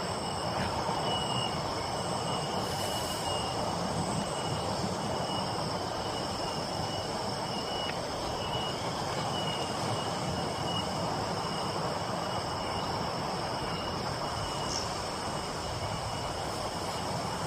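Steady rain hiss with insects trilling in a constant high drone, one of them pulsing on and off.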